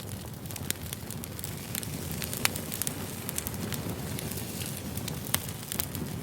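Firewood burning, crackling and popping at irregular moments over a low, steady rumble. The two sharpest pops, about two and a half and five and a half seconds in, are the loudest.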